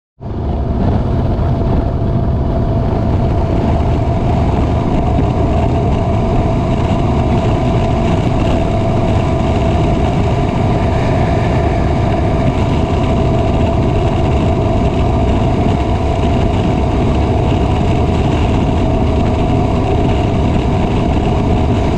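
Motorcycle running steadily on the road at a constant speed: an even engine rumble with a steady hum and road noise, with no revving or changes in pitch. It starts suddenly at the very beginning.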